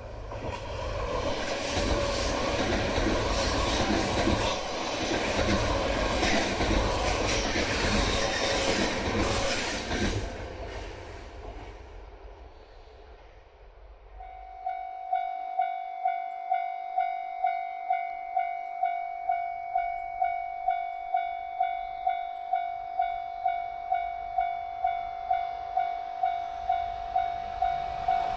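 An E3-series Yamagata Shinkansen train passes close by with loud rumbling wheel and running noise, then fades away over a few seconds. About halfway through, a level-crossing warning bell starts ringing, an electronic ding about twice a second, which warns that a train is approaching.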